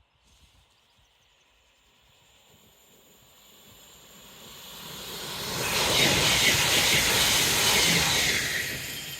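Train passing at speed: a rushing noise that builds over several seconds, is loudest about six to eight seconds in, then fades away.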